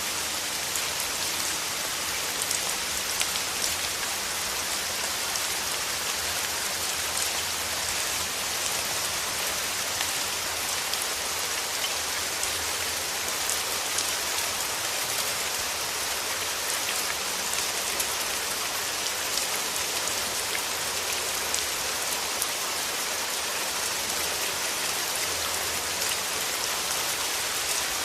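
Steady rain falling, an even hiss with many small drops pattering on leaves and ground.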